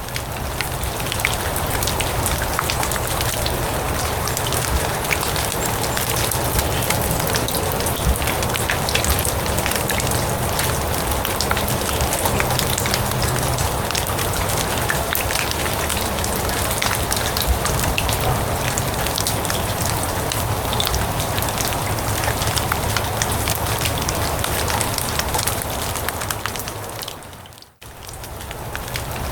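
Steady rain falling on grass, a dense hiss full of fine, sharp drop ticks. It fades almost to nothing for a moment near the end and then comes straight back, as at the seam of a looped recording.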